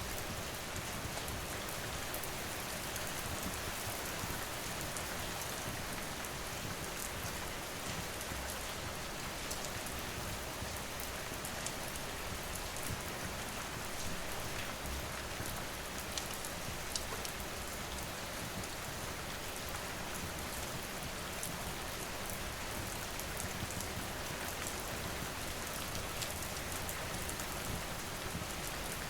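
Steady rain falling, an even hiss with scattered sharp little ticks.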